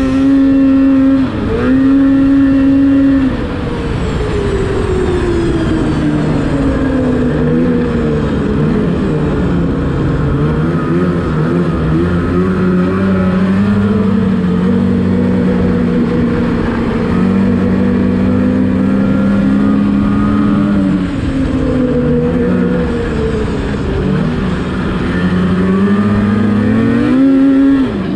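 Snowmobile engine running hard under throttle, its pitch rising and falling as the throttle is worked. Two short high-rev stretches come in the first few seconds, then a lower, wandering run, and it climbs again near the end.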